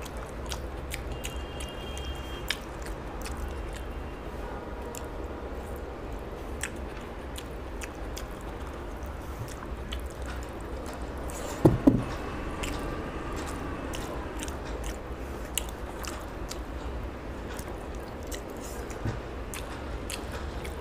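Close-up open-mouthed chewing of rice and fish curry eaten by hand, with wet lip smacks and mouth clicks, over a steady low hum. A brief loud double knock comes about halfway.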